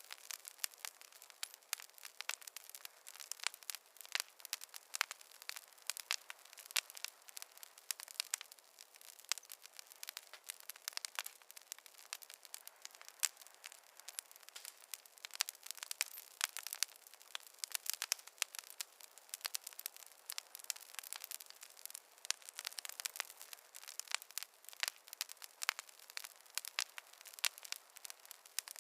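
Fireplace fire crackling: a dense, irregular run of small snaps and pops, several a second, over a faint hiss, with no low roar of flames.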